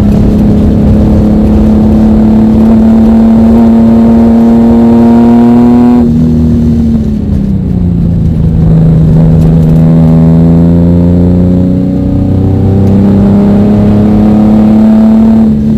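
Ford Mustang V6 engine under hard throttle, heard from inside the car, its pitch climbing steadily. About six seconds in it lifts off and the revs fall, then it pulls again and climbs until near the end.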